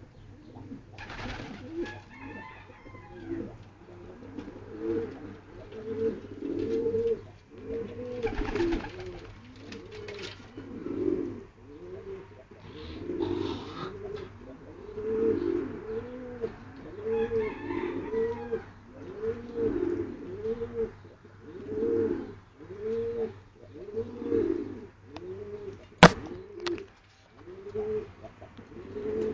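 Several domestic pigeons cooing, overlapping arched low coos about once a second. A single sharp click near the end.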